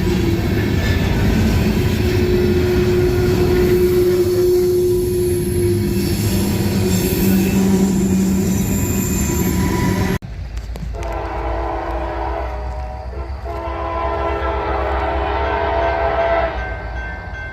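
Freight train rolling past with steady wheel and rail noise; after an abrupt cut about ten seconds in, a passing freight locomotive's multi-chime air horn sounds for about five seconds, with the rumble of the train moving at speed beneath it.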